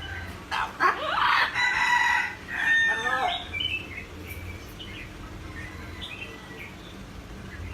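A bird giving a loud, crow-like call lasting about two seconds, starting about a second in, followed by fainter short chirps.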